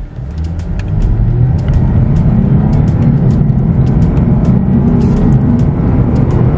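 Lexus IS250's 2.5-litre V6 accelerating hard from a standstill, heard from inside the cabin. The sound builds over the first second, then holds loud as the revs climb. The automatic transmission is in normal mode, with ECT power mode off.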